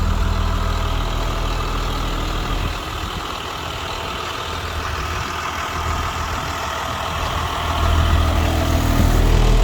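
2004 Blue Bird school bus's Caterpillar diesel engine idling: a steady low hum that drops back a little about three seconds in and grows louder again near the end.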